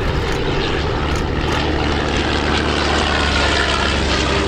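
Piston engine and propeller of a First World War-style fabric-and-wire fighter aircraft flying a display, a steady drone.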